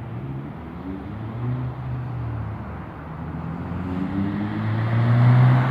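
A motor vehicle's engine running, its low hum wavering in pitch and growing louder toward the end.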